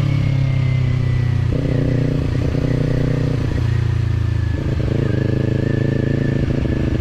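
Kawasaki parallel-twin motorcycle engine running on the road at steady revs. The throttle opens about a second and a half in, eases off around three and a half seconds, and opens again near five seconds.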